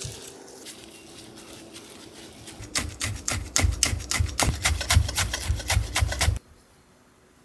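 Food being worked on a board in the kitchen: a quick run of rhythmic scraping strokes, about six a second, that begins near the middle and stops abruptly.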